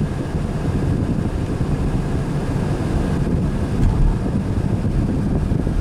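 Steady low rumble of road and engine noise inside a moving car's cabin, with a brief low thump about four seconds in.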